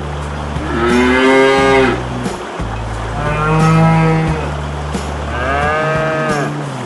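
Cattle mooing: three long moos, each rising and then falling in pitch, over a steady low hum.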